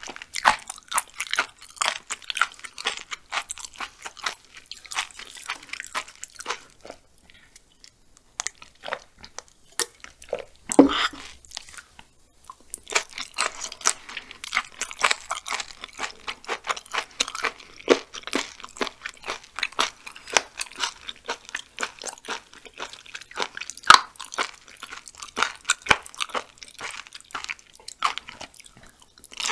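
Close-miked crunchy chewing of raw seasoned chicken gizzard, a dense run of rapid crunches that eases off briefly about seven seconds in and again around twelve seconds.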